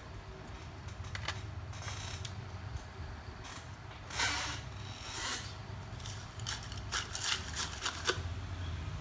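A small tool scraping underfill glue off an iPhone 7 Plus logic board: short scrapes, a few early on and a quick run of them in the second half, over a steady low hum.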